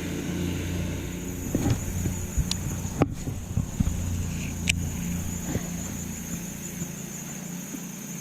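Electric trolling motor running steadily: a low hum with a thin high whine over it, the hum dropping away near the end. Scattered light clicks and knocks sound over it.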